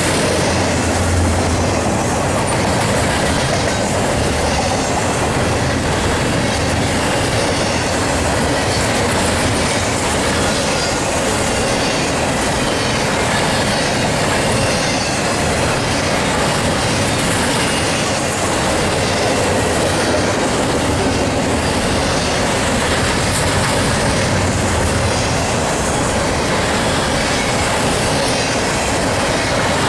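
Union Pacific double-stack container train rolling past at track side: a steady rumble of freight cars with steel wheels clicking over the rail joints.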